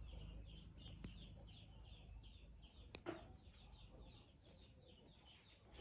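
Faint bird chirping in the background, a quick call repeated about three times a second, with a single sharp click about three seconds in.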